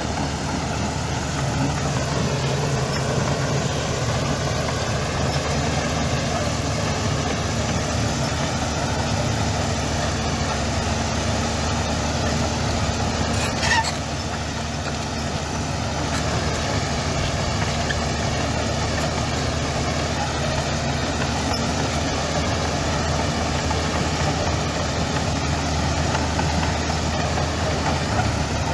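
Heavy diesel engine of earthmoving machinery running steadily at an even speed, with a single brief sharp click about halfway through.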